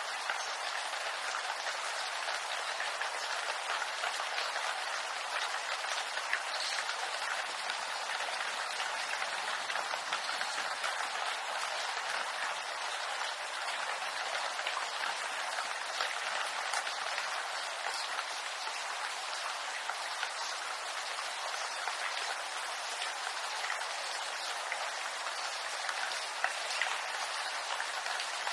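Steady rain falling on a bamboo grove: a dense, even hiss of countless small drop ticks on the leaves, with no let-up.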